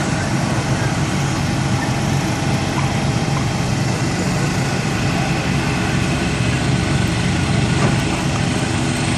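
Motor vehicle engine idling steadily, a constant low hum with no change in speed.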